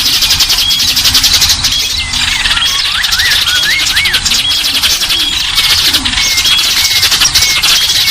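Several small songbirds calling at once: a fast, dry, continuous chatter, short high piping notes repeated every second or so, and slurred whistles that rise and fall, thickest around three to four seconds in.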